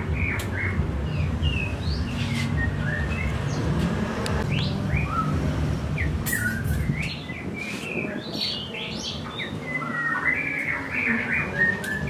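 Caged songbirds chirping: many short calls that sweep up and down in pitch, scattered through the whole stretch, over a low rumble that drops away about seven seconds in.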